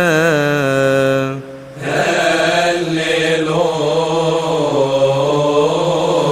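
A voice chanting long held notes with vibrato, wordless or melismatic. It breaks off briefly about a second and a half in, then the chant carries on.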